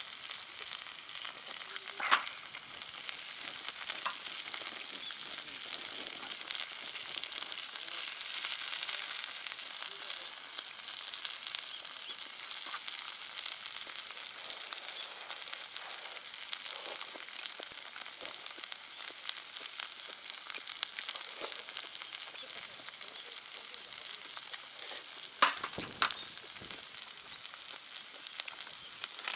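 Meat sizzling steadily on a cast-iron jingisukan grill pan heated over a wood fire, with fine crackling in the hiss. A sharp knock about two seconds in and a few louder knocks near the end.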